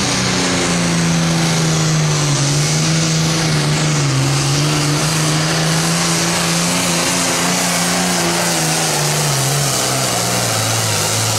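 John Deere Super Farm pulling tractor's diesel engine running hard under load on a pull, a loud steady note that sags lower near the end.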